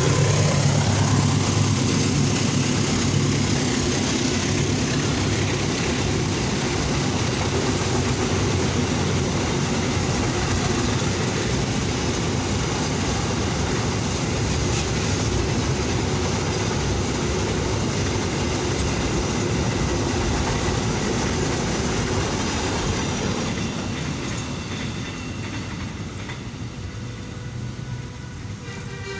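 Long container freight train rolling past on steel rails: the diesel locomotive's engine note fades in the first second, then the wagons' wheels keep up a loud, steady rumble on the track. The noise dies away over the last few seconds as the end of the train passes.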